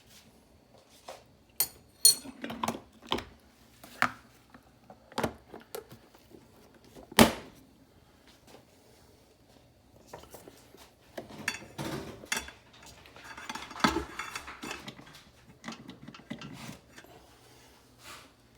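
Handling of a drip coffee maker's parts: a run of separate clicks, knocks and light clatter, the loudest knock about seven seconds in, followed by a longer stretch of busier rustling and clatter in the second half.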